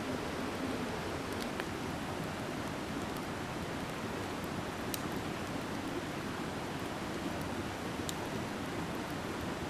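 Steady rushing of a mountain stream, with a few faint sharp ticks.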